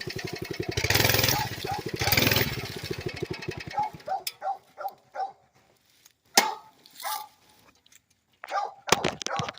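Mini bike's small engine running with a rapid, even firing beat, surging louder twice, then cutting off about three and a half seconds in. A dog then barks in a quick run of short yips, followed by a few scattered knocks.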